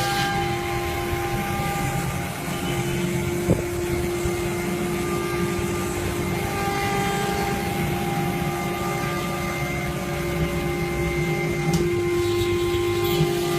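CNC router spindle running with a steady whine over a low rumble, cutting and carving a wooden partition panel. A single sharp click about three and a half seconds in.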